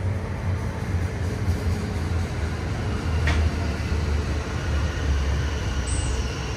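Train running at a station with a steady low rumble. There is a brief sharp click about three seconds in.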